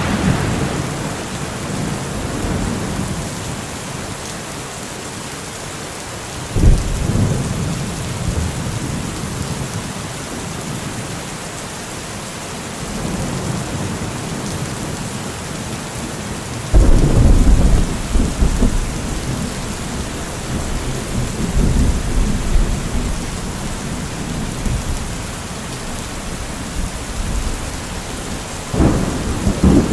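Steady rain with thunder: a rumble starts about six seconds in, a louder, longer rumble about halfway through, and another near the end.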